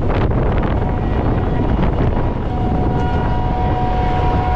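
Moving passenger train heard from an open coach window: the running rumble of the train with heavy wind buffeting the microphone. A steady two-note horn-like tone comes in about two seconds in and holds through the end.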